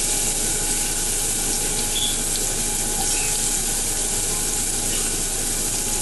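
Chopped onion frying in hot olive oil in a pot: a steady sizzle that starts as the onion goes into the oil.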